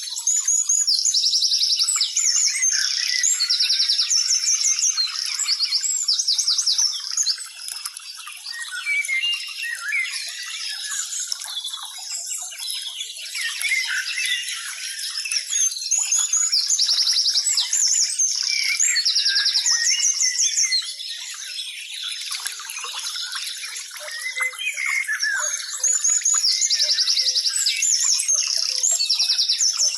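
A dense chorus of birds chirping, with loud bouts of rapid, even trills repeating several times.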